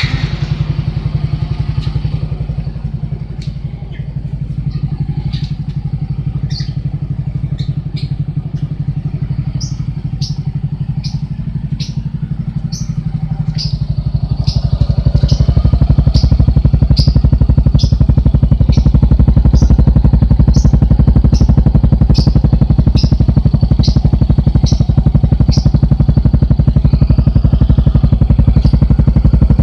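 Yamaha Mio Z scooter's engine running through an aftermarket Tsukigi exhaust, coming in abruptly at the start. About halfway through it runs louder and deeper and holds there, with regular sharp ticks throughout.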